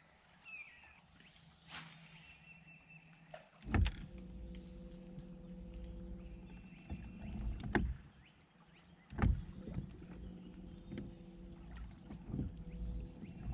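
A boat motor runs steadily in two spells, each starting with a knock: the first from about 4 to 8 seconds in, the second from about 9 seconds in onward. The motor is holding the boat against a river current. Faint bird chirps sound above it.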